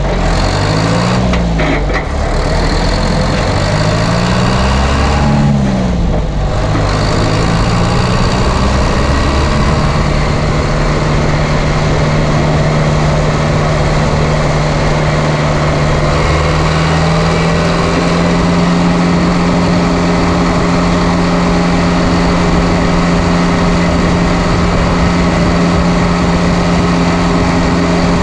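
Straight-piped John Deere 2030 diesel tractor engine, its muffler gutted and its injection pump turned up, running on the road. Its pitch rises and falls three times in the first six seconds, then holds steady, stepping up a little about ten seconds in and again at about seventeen seconds.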